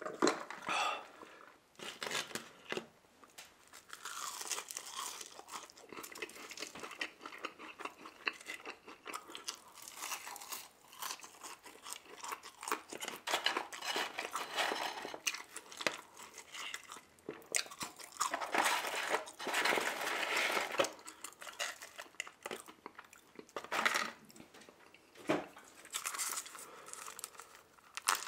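Close-miked chewing and crunching of McDonald's chicken nuggets and fries, a dense run of irregular crisp bites and mouth sounds. Near the end, plastic crinkles as a sauce cup lid is peeled.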